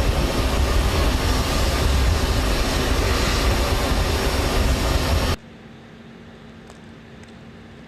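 Loud steady rumble of aircraft engine noise that cuts off abruptly about five seconds in, leaving a faint low steady hum with a few light ticks.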